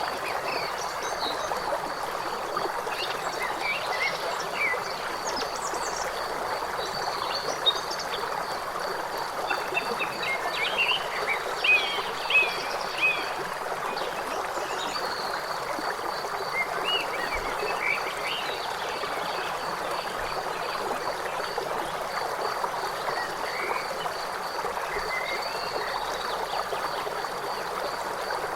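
Steady rush of a river, with a continuous high insect trill above it and scattered short chirping calls that are busiest around the middle.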